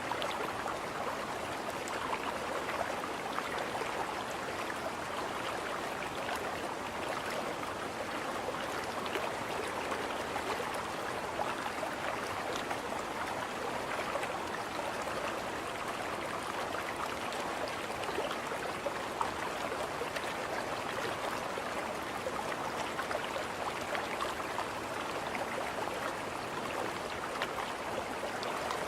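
River water rushing and splashing steadily against a moving boat, an even wash with small droplet ticks.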